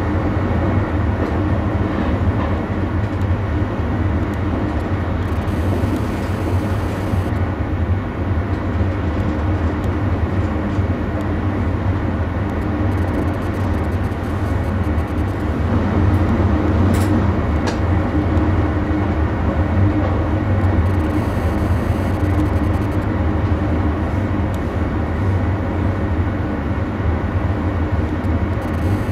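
NS passenger train running steadily along the track: a continuous low rumble of wheels on rail and drive. A brief sharp high sound cuts in about seventeen seconds in.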